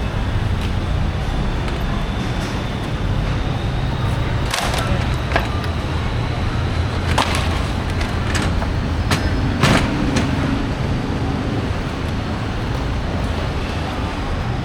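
Busy market background with a steady low vehicle engine rumble, broken by about six sharp knocks in the middle of the stretch.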